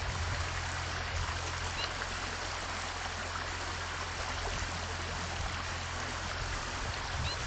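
A steady rushing hiss, like running water or rain, over a low steady hum. A small bird gives a faint short chirp about two seconds in and again near the end.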